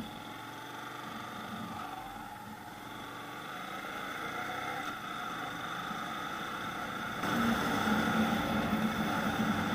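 Yamaha MSlaz motorcycle's 155 cc single-cylinder engine running as the bike pulls away and gathers speed, mixed with wind and road noise. The sound grows louder and steps up about seven seconds in.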